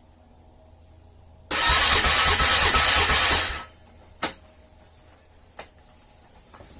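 A car's starter cranking a cold engine for about two seconds, then stopping without the engine running on. Two short sharp clicks follow.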